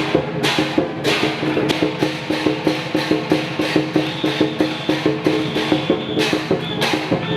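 Chinese lion dance percussion ensemble playing live, a fast, even beat of drum and struck-metal hits, several a second, over ringing tones.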